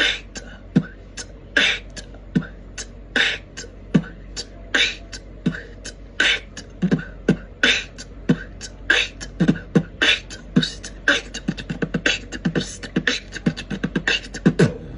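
Beatboxing: a basic pattern built from bass kicks (B), hi-hats (T) and inward K snares, in quick rhythmic strokes that get denser near the end.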